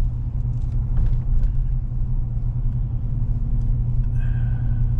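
Steady low rumble of a road vehicle running, with a few faint clicks over it.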